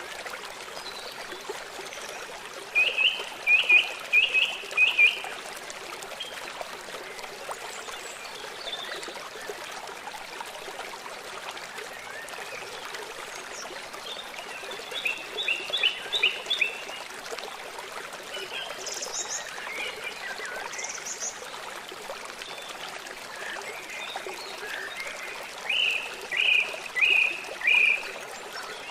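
Birds calling over steadily running water: three times, a bird gives a quick run of four or five sharp chirps, with a few higher calls in between.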